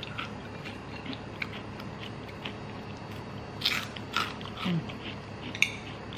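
Close-miked chewing of crispy fried chicken skin: soft mouth sounds with scattered light clicks, and a few louder crisp crunches a little past halfway, then a sharp click near the end.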